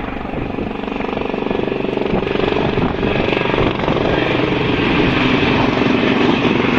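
Departing aircraft's engines running at takeoff power, a steady engine noise growing louder as the plane approaches.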